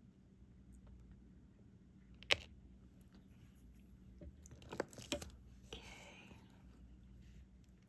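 Small clicks and taps of diamond-painting work: a drill pen picking up resin drills and pressing them onto the adhesive canvas. One sharp click about two seconds in, a few more clicks around five seconds, then a brief rustle.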